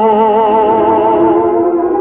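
Orchestral theatre music from an old radio broadcast, with sustained notes held with a wide vibrato and the sound cut off above the upper treble.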